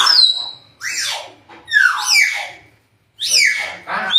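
Hill myna giving a run of four separate whistled calls and squawks, each falling in pitch; the first opens with a short high steady whistle.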